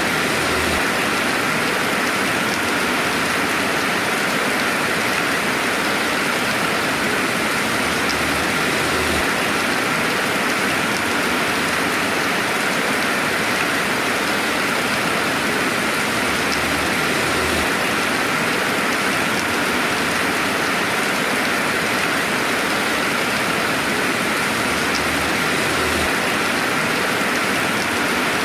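Steady rainfall: an even hiss of rain on a surface, with an occasional single drip standing out.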